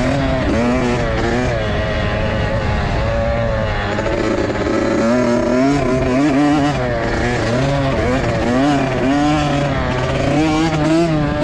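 Several dirt bike engines revving on a motocross track, their pitch rising and falling again and again, with no break, as the riders open and close the throttle.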